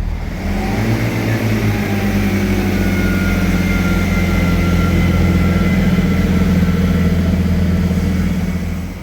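Diesel passenger train's engine throttling up as it pulls away, with a steady low hum and a whine that rise in pitch over the first couple of seconds and then hold, easing off near the end.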